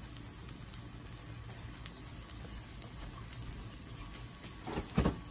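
Oil sizzling with faint scattered crackles around eggplant omelette patties (tortang talong) frying in a pan, with one thump about five seconds in.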